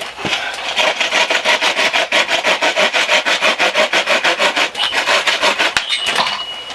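Saw cutting through a length of tree trunk with fast, even back-and-forth rasping strokes, about five a second. The strokes stop about six seconds in.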